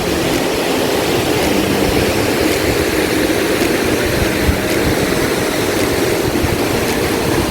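Steady, loud rush of water from the Grojogan Sewu waterfall, heard close enough to be in its spray.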